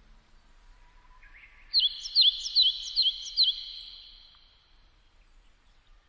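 A songbird singing one short phrase: a few quiet lead-in notes, then five loud, quick, sharp notes over a continuous high trill, lasting about two and a half seconds.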